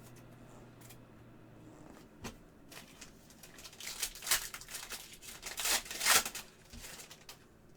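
Trading card packs and cards being handled, with papery tearing and crinkling. A run of scrapes and crackles begins about two seconds in and is loudest in the second half.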